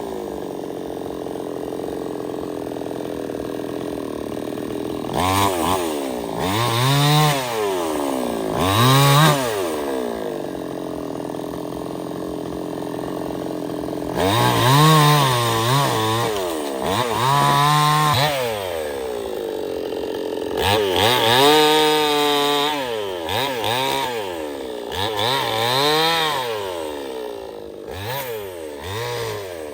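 Stihl 070 two-stroke chainsaw idling, then revved up and down many times, its engine pitch climbing and falling with each burst of throttle.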